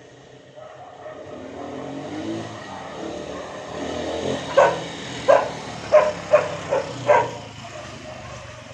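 An engine running steadily, with a dog barking about six times in quick succession in the second half.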